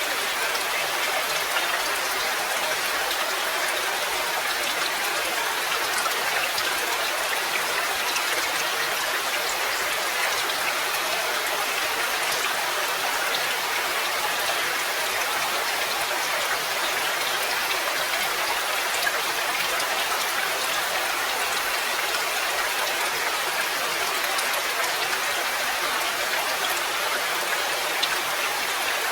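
Steady rain falling, an even hiss of drops that keeps on without let-up.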